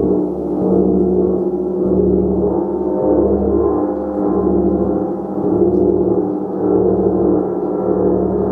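Gong played continuously with soft strokes: a dense, sustained wash of overlapping tones that swells and ebbs about once a second, with no sharp individual strikes.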